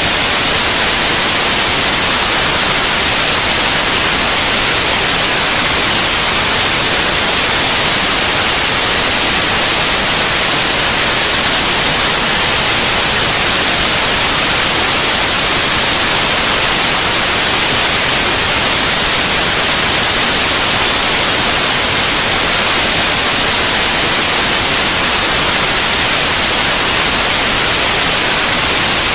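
Steady, unchanging white noise: an even hiss, strongest in the high end, played as a sleep aid for babies.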